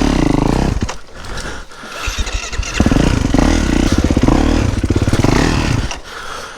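A 450 four-stroke single-cylinder motocross bike engine on the throttle at low revs. Its note sags and stumbles about a second in, picks up strongly again from about two seconds in, and drops away near the end.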